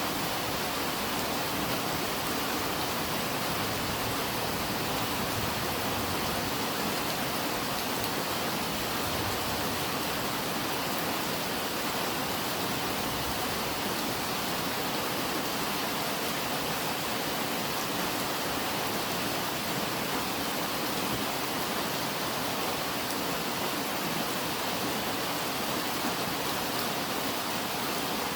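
Rain falling steadily, an even hiss with no single drops or gusts standing out.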